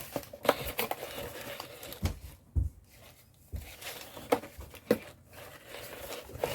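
Hands rummaging through a box of paper and packaging scraps: rustling and crinkling, with several light knocks and clicks spread through it.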